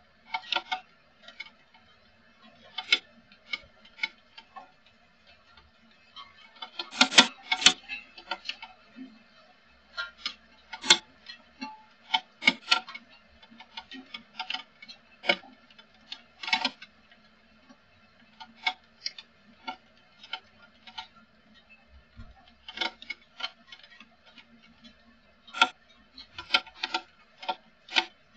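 Water drops tapping irregularly on a hard surface close to the microphone, a few sharp taps a second with pauses, over a faint steady electrical hum from the recorder.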